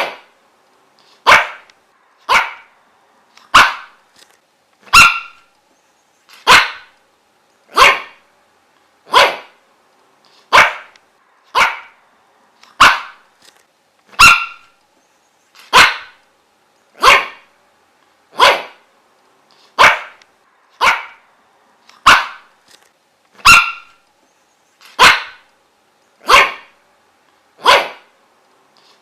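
A dog barking single, sharp barks at a steady pace, about one every second and a bit, with short pauses between.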